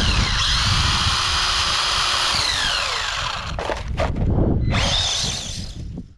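Electric motor of a WLToys A969 1/18 RC short course truck whining as it drives, the pitch rising as it speeds up and falling as it slows, over the rough rumble of tyres on the ground. The whine drops out briefly around the middle and comes back before fading out near the end.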